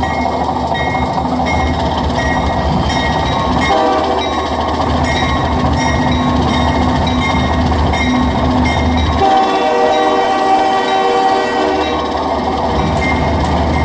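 Sound-equipped HO-scale model diesel locomotives running: a steady low engine rumble from the decoder speaker, with a multi-note horn sounded for about two seconds a little past the middle. Faint light ticking continues throughout.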